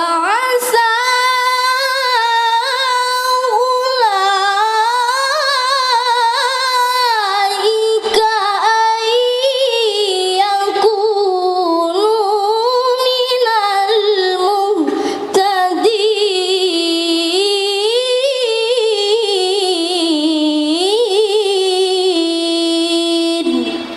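A child qari's high voice reciting the Quran in melodic mujawwad style: one long, ornamented phrase with wavering runs of pitch. It ends on a long held note.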